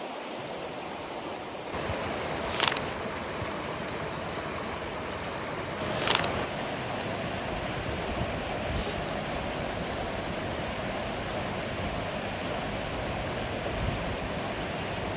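Steady rushing outdoor noise of wind and lake water washing on the shore, with two brief louder bursts a few seconds apart.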